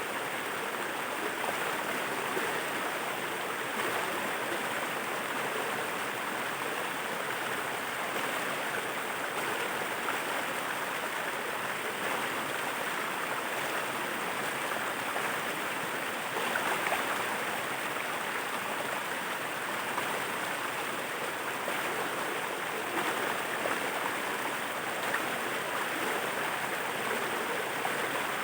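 Steady rush of water pouring over a waterfall, an even splashing noise that holds at one level throughout.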